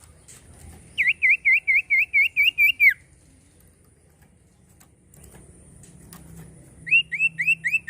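Common iora (cipoh) singing: two runs of clear, repeated whistled notes, the first a string of about nine looping notes at about four to five a second, the second starting near the end with quicker rising notes.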